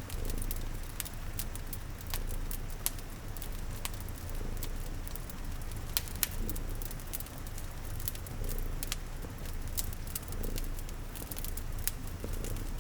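Layered ambience of a cat purring steadily under frequent sharp pops and crackles of a wood fire, with a steady hiss of rain.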